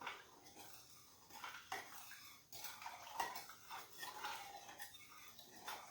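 A spoon stirring a vinegar, sugar and spice mixture, scraping and clicking against the side of the container in repeated strokes to dissolve the sugar and turmeric.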